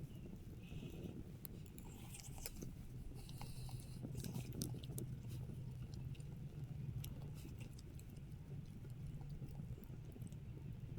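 Close-up chewing with small irregular crunches and clicks, as food is eaten, over a low steady hum.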